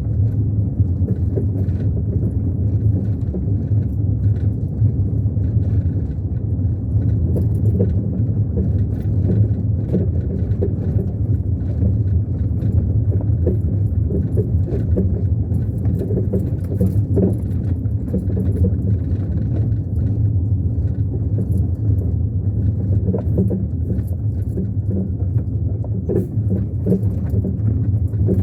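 Car driving at a steady pace: a constant low engine and road rumble, with frequent light rattles and clicks.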